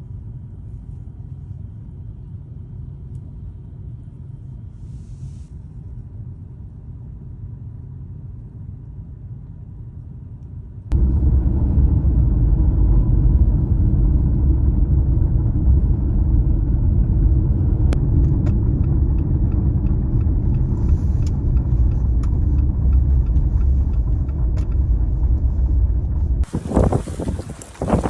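A car driving on the road: a steady low rumble of road and engine noise that jumps abruptly louder about eleven seconds in. Near the end it gives way to uneven, gusty noise.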